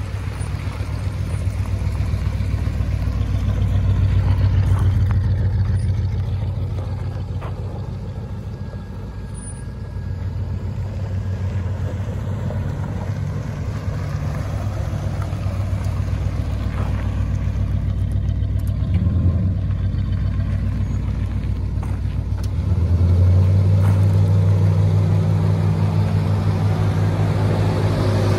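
A 1977 full-size sedan's engine idling steadily, growing louder about three-quarters of the way through.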